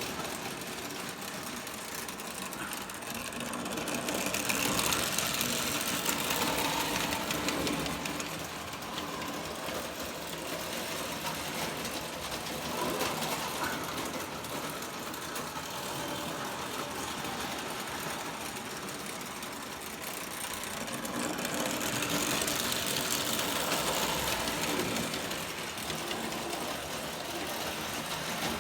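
O scale model train running on the layout track: a steady whirring motor and fast wheel clatter on the rails. It grows louder twice, as the train passes close by.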